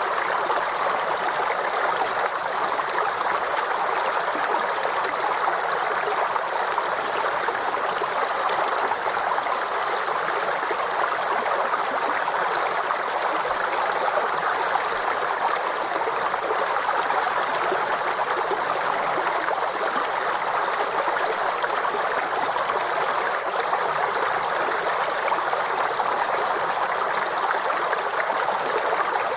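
Forest stream flowing steadily over rocks, a continuous babbling and trickling of water.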